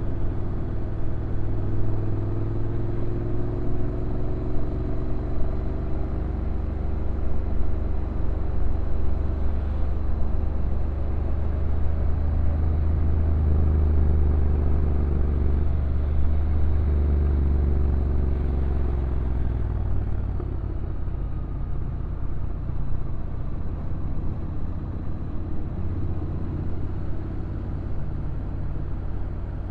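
Honda NC750X DCT motorcycle's stock parallel-twin engine running downhill, its pitch rising and falling as the revs change. The rumble is heaviest about halfway through and eases a little in the last third.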